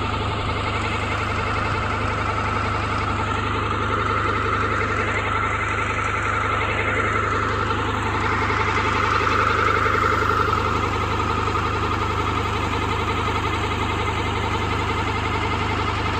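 Tractor-driven water pump running steadily: a continuous engine hum with a high whine, swelling slightly about ten seconds in.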